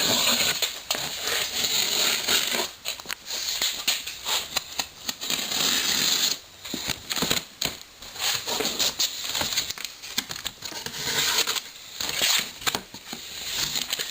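Cardboard shipping boxes being opened and unpacked by hand: packing material rustling and crinkling in uneven bursts, with tearing and scattered light knocks.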